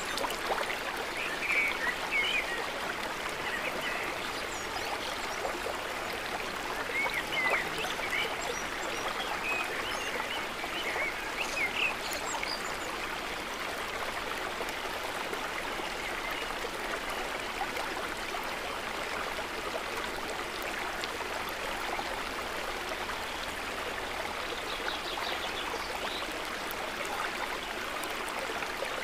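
Water trickling and babbling steadily, with brief higher-pitched squiggly sounds over the first dozen seconds.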